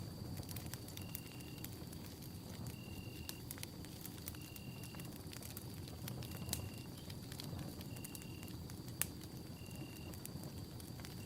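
Campfire burning, with frequent sharp crackles and pops over a low rush of flame. Behind it are a steady high whine and a short high note that repeats about every second and a half.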